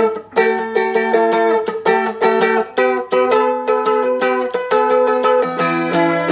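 Seagull Merlin four-string fretted dulcimer, capoed at the first fret, strummed in quick rhythmic strokes, changing chord about three seconds in and again near the end.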